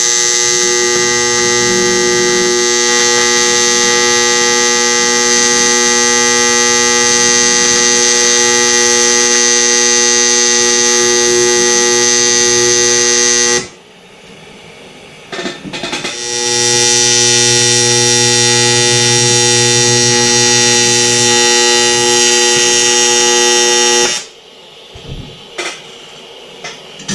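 Fronius AC TIG welding arc buzzing steadily while a fillet weld is run on aluminium, in two runs: one of about 13 seconds, then after a short break one of about 8 seconds. After a few seconds of quiet at the end there are a few small clicks. The weld was going in too slowly for a fillet that size, a sign of too little heat in the part, which the welder thinks preheating would fix.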